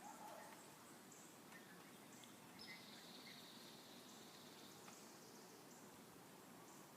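Near silence: faint outdoor ambience with a soft steady hiss and thin, high-pitched chirps from small creatures, one longer high call running for about two seconds near the middle.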